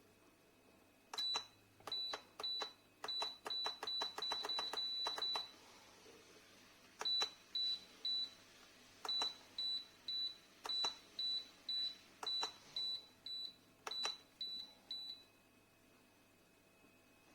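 Touch-button control panel of an electric kettle with temperature selection beeping, one short high beep with a click per press. There is a quick run of presses, a pause, then about two beeps a second for several seconds before they stop.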